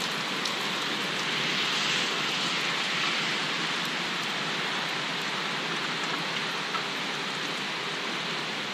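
Steady rain falling on a wooden deck and lawn, an even hiss with a few faint drop ticks.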